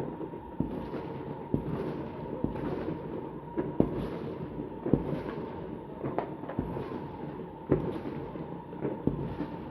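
Many fireworks going off at once: a continuous crackle of distant bangs, with sharper, louder reports about every second, the loudest around four, five and eight seconds in.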